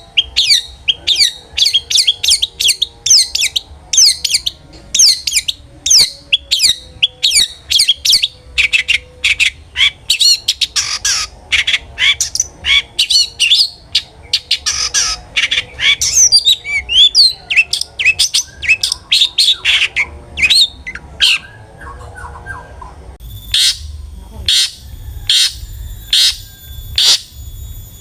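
Long-tailed shrike (cendet) singing a fast, continuous run of harsh, chattering notes. Near the end the song changes to sharp calls repeated evenly, about two a second.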